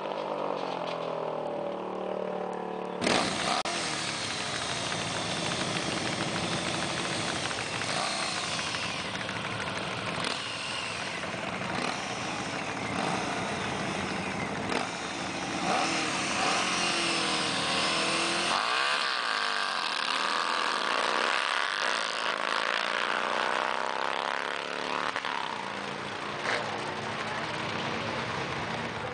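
Yamaha motorcycle engine on a racing lawn mower, running and revving, its pitch rising and falling again and again.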